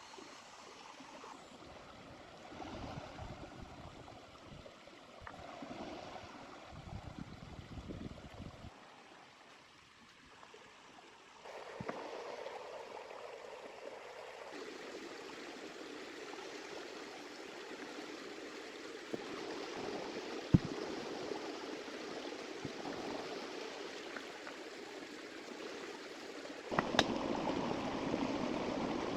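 A small river running with a steady rush and gurgle of water. Its level and tone jump abruptly a few times, and several sharp clicks or knocks are heard, the loudest about two-thirds of the way in.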